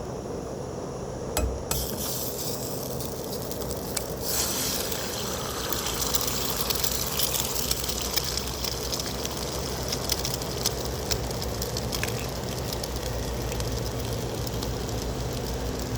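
Food sizzling and crackling in a frying pan over a camp stove, starting about a second and a half in and growing louder from about four seconds in, with sharp pops and clicks throughout.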